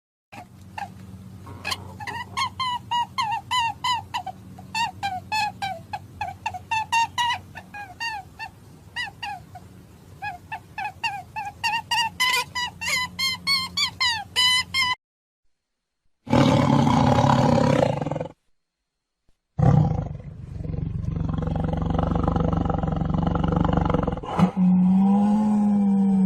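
Short pitched animal calls repeated about twice a second for some fifteen seconds. After a pause come loud animal roars: one of about two seconds, then a longer one.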